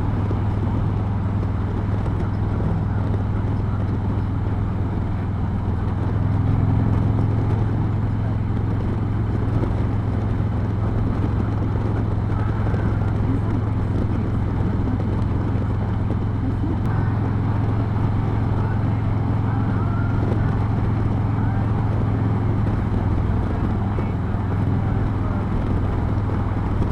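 Harley-Davidson touring motorcycle's V-twin engine running steadily while riding, with an even rush of road and wind noise. The level swells slightly about six seconds in.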